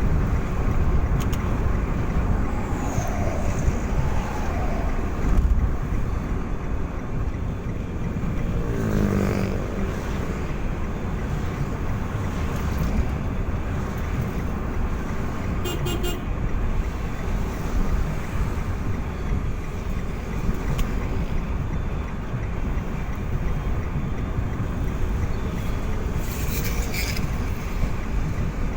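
Steady road and engine rumble of a vehicle driving, with a horn sounding briefly about nine seconds in.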